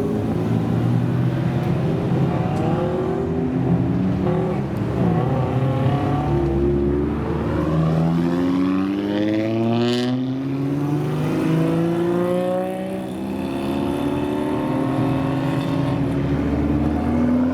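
Car engines accelerating hard, their pitch rising through one gear after another, with a car passing close about ten seconds in.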